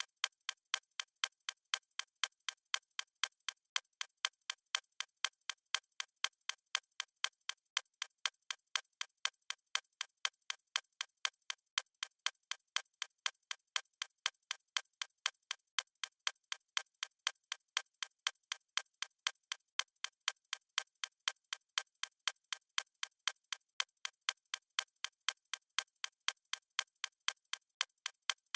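Fast stopwatch ticking sound: sharp, evenly spaced clicks, a few per second, keeping a steady rhythm.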